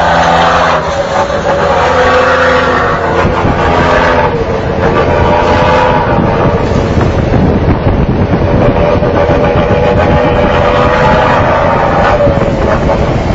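Scania truck engine revved in repeated throttle blips, a loud pitched engine note with a rumble underneath, swelling and easing off every few seconds.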